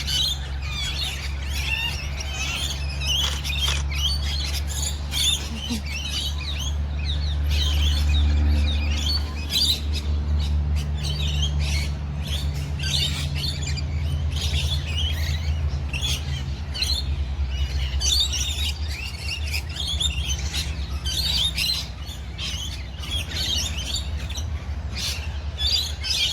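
Many aviary birds chirping and squawking at once in a dense, unbroken chorus, over a low steady rumble.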